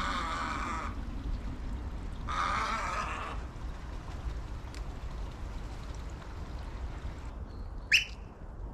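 An animal calling twice, each call harsh and about a second long, with a short sharp chirp near the end.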